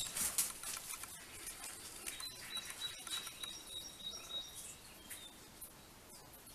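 Quiet background with faint, thin, high chirps from a small bird, heard a couple of seconds in, over a few light knocks and shuffles.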